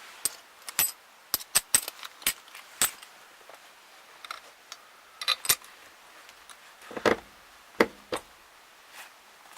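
Bolts and washers clinking as they are handled and fitted: a series of sharp, irregular metallic clicks, some ringing briefly.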